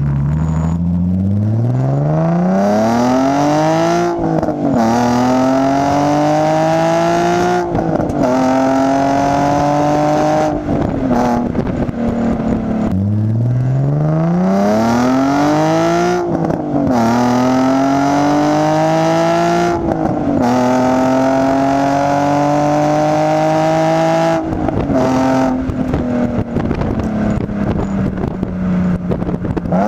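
Nissan 350Z HR's 3.5-litre VQ35HR V6 through an Injen SES1987TT cat-back exhaust, taken hard up through the gears twice. The pitch climbs steeply and drops back at each quick upshift. Near the end the throttle eases off and the revs fall slowly, with some crackling.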